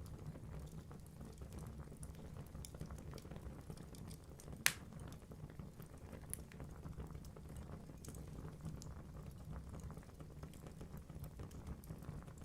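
Log fire burning in a fireplace: a low steady rumble of flames under frequent small crackles, with one sharp louder pop about four and a half seconds in.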